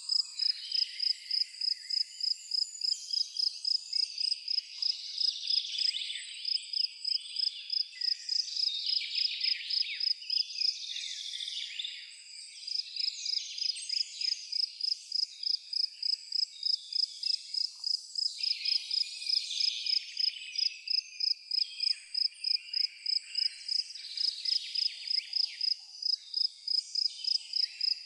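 A cricket chirping in a steady rhythm, about three chirps a second, breaking off for a moment about eleven seconds in, with birds singing and twittering behind it.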